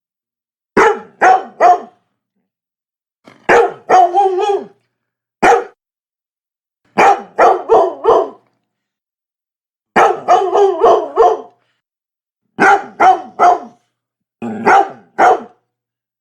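Labrador retriever barking in quick bursts of two to five barks, with pauses of about a second between bursts.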